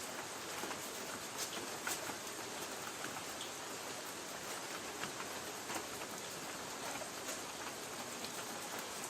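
Light rain falling on a tin roof: a steady hiss with scattered sharper ticks of individual drops striking the metal.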